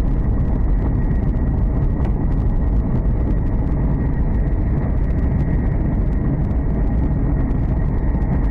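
Hokuriku Shinkansen train running at high speed, heard from inside the passenger cabin: a steady, loud rumble of wheels on rail with a steady high whine over it.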